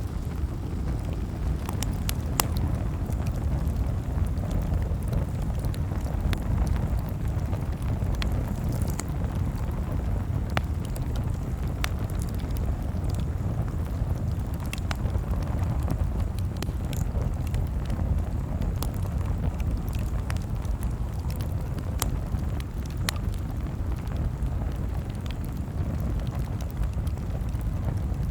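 Campfire crackling: scattered sharp pops and snaps, a second or so apart, over a steady low rumble.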